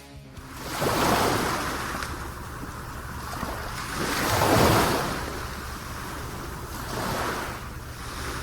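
Sea waves surging onto the shore, swelling three times: about a second in, around the middle, and near the end.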